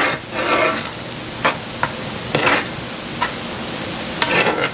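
Marsala sauce simmering and sizzling in a skillet as it thickens, with a steady hiss under several short stirring and scraping strokes of a utensil across the pan.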